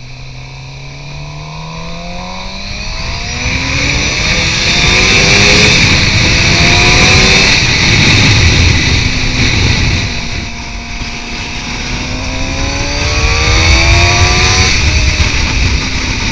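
Suzuki GSX-R 750's inline-four engine through a Two Brothers M2 aftermarket exhaust, accelerating hard: the revs climb, drop back and climb again several times as it shifts up through the gears. It is loudest about six to nine seconds in, eases briefly about ten seconds in, then revs up once more.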